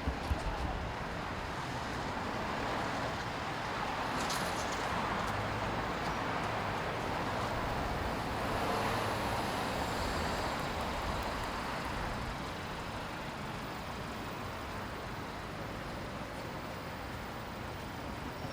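Road traffic noise, swelling and fading over several seconds as a vehicle passes.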